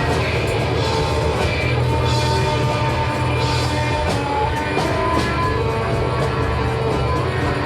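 Live rock band playing a loud instrumental passage with no vocals: distorted electric guitars, drums and organ.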